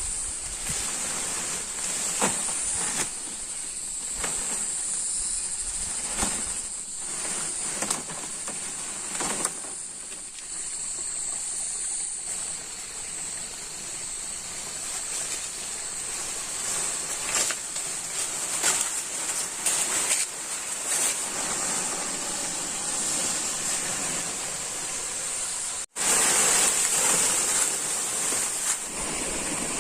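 Forest ambience of insects buzzing steadily at a high pitch, with scattered short knocks and clicks. About 26 s in it cuts abruptly to a louder steady rushing of flowing water.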